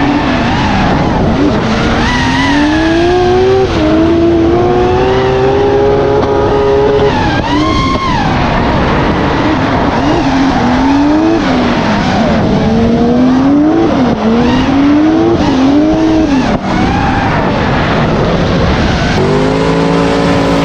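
A car engine revving up and falling back over and over, as in drifting, with tyre squeal over the engine. Near the end a steadier engine note takes over.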